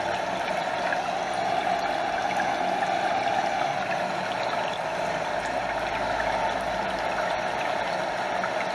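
Stream water running and splashing steadily over a small waterfall, a constant even rush with no breaks.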